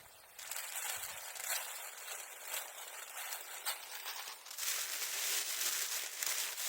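Bamboo grass and newspaper burning in a bonfire: a dense hissing crackle with scattered sharp pops. It starts suddenly a moment in and grows louder about halfway through.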